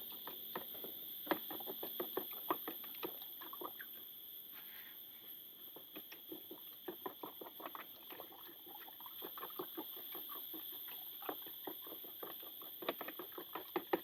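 Irregular light clicks and taps from hands preparing food, several a second in uneven clusters. A steady high-pitched drone, typical of tropical forest insects, runs behind them.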